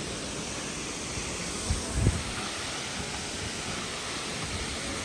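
Steady rushing of a tall waterfall, with a couple of low wind buffets on the microphone about two seconds in.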